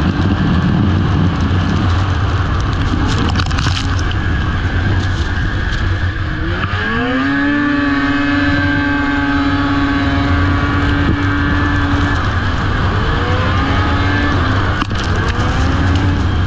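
Racing snowmobile engine revving up about six seconds in and holding a steady high pitch for several seconds, then rising again twice near the end, over a constant loud rushing noise.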